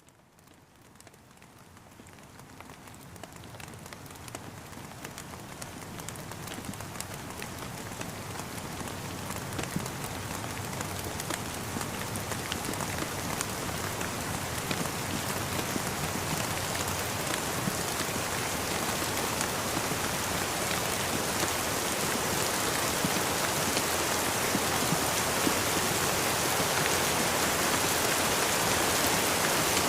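Steady rain falling, an even hiss dotted with many small drop ticks, fading in from near silence at the start and growing steadily louder.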